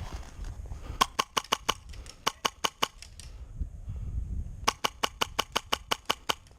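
Airsoft gun firing two quick strings of shots, about five or six a second: around eleven shots starting about a second in, then around ten more near the end.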